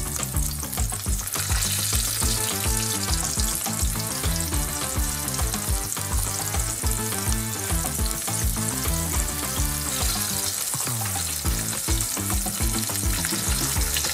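Small horse mackerel coated in potato starch deep-frying in a pan of oil: a steady crackling sizzle. Background music with a low, shifting bass line plays underneath.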